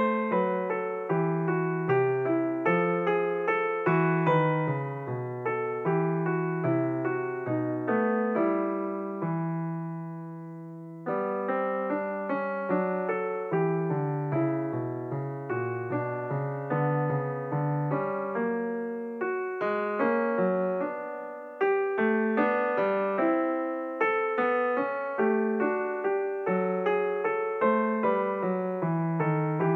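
Background solo piano music: a steady flow of notes, with one chord left to fade out for about two seconds a little before the middle.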